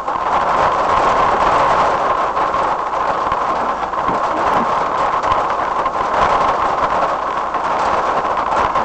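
Rain falling on a car's windscreen and roof, heard from inside the car through a dashcam's microphone: a steady hiss with many small, irregular ticks of drops.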